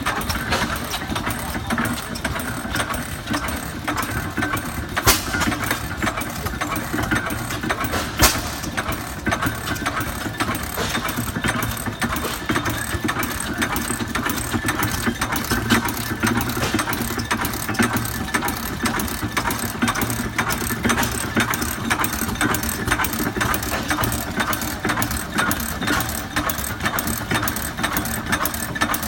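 Samson hoist engine, an old stationary gasoline engine, running steadily with an even, rapid clatter. Two sharper knocks stand out, about five and eight seconds in.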